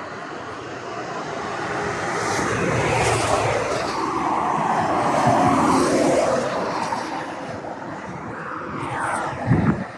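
Motor vehicle on the road, its engine and tyre noise swelling and then fading over several seconds with a falling pitch, and a short thump near the end.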